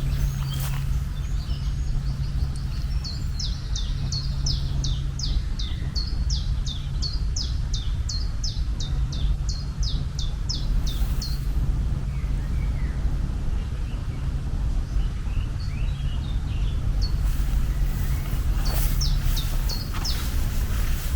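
A bird calling in a quick run of short, high, falling chirps, about two or three a second, for several seconds, then again briefly near the end. Under it runs a steady low rumble with a hum.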